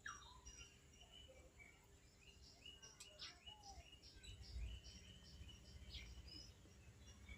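Faint birdsong: several small birds chirping and whistling in quick repeated short notes, over a low outdoor rumble that swells briefly partway through.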